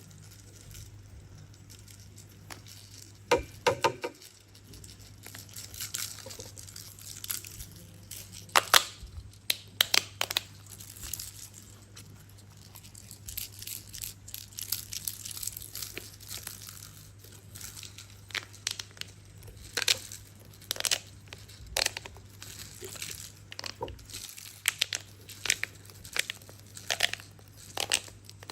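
A plastic toy or its packaging being handled: irregular crinkling, clicks and small knocks, with louder clusters now and then, over a faint steady low hum.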